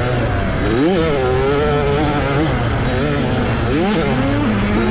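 65cc two-stroke motocross bike engine running under throttle, its pitch shooting up and dropping back sharply twice, about a second in and again near the end, over a steady rush of noise.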